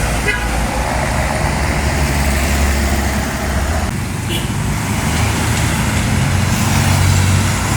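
Heavy diesel truck engine running with road traffic noise. The low engine note drops away about four seconds in and then comes back.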